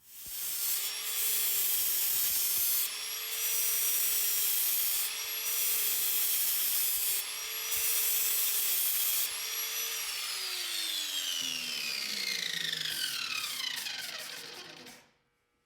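An electric cutting tool with a steady motor whine cuts steel pipe in four loud stretches of two to three seconds each, easing briefly between them. About ten seconds in it is switched off, and its pitch falls steadily as it spins down over about five seconds.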